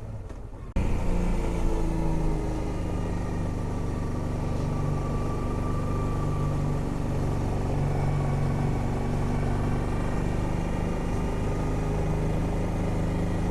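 Honda Transalp XL650V's 650 cc V-twin engine running as the motorcycle rides along, its pitch drifting gently up and down, with a steady low rumble underneath. It comes in suddenly under a second in.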